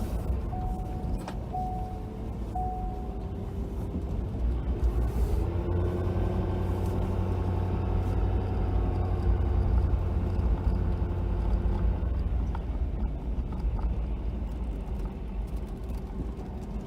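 Ford F-250 pickup's engine running under way with a steady low rumble, rising in pitch as it accelerates about five seconds in and then holding. Several short, evenly pitched beeps sound in the first three seconds.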